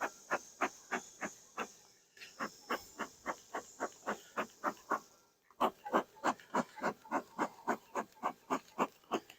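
Bee brush swept in quick short strokes across a honey frame to clear the bees off it, about three to four strokes a second. The brushing pauses briefly about two seconds in and again about five seconds in.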